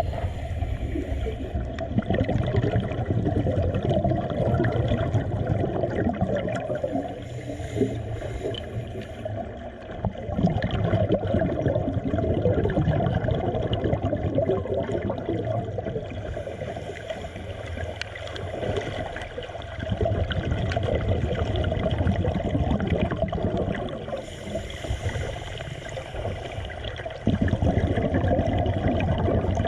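Water gurgling and churning, swelling and easing in surges several seconds apart.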